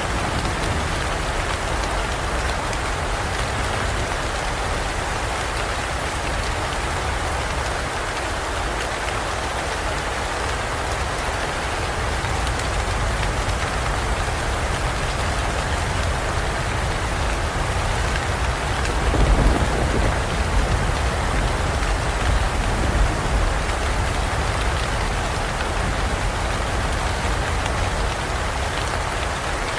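Heavy rain falling steadily in a forest, an even hiss of drops on foliage and ground. About two-thirds of the way through, a low rumble of thunder swells and rolls for a few seconds.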